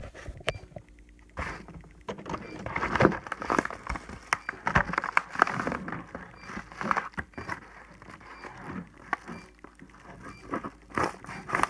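A cardboard shipping box being handled and opened: irregular rustling, scraping and crinkling of cardboard and packaging, with a few small knocks.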